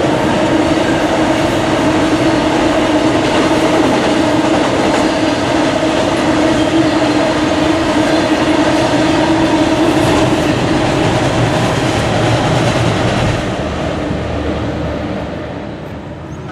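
Intermodal freight cars loaded with highway trailers rolling across a steel girder railroad bridge: a steady, loud rolling rumble of wheels on rail that fades away over the last few seconds as the end of the train clears the bridge.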